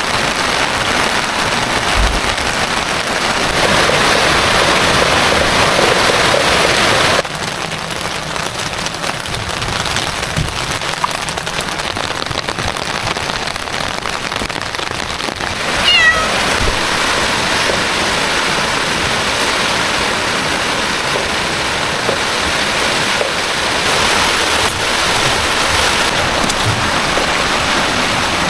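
Heavy rain falling steadily; its sound drops abruptly in level about seven seconds in. About halfway through there is one brief high whine that falls in pitch.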